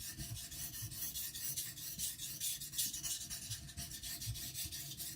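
Kiridashi blade being stroked back and forth on a whetstone in quick, even, rasping scrapes. Its flat back is laid on the stone to remove the burr, with extra strokes at the heel.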